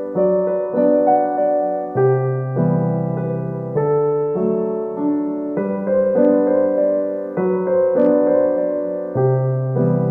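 Soft background music on piano or electric piano: gently repeating chords and a slow melody, with a new chord struck about every second or so.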